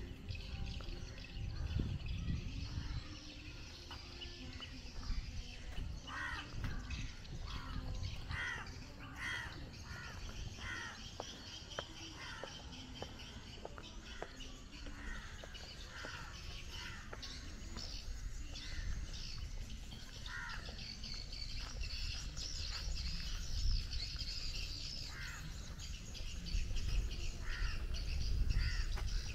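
Birds calling, with one bird giving a long run of short repeated calls, more than one a second, starting about six seconds in, over a steady low rumble.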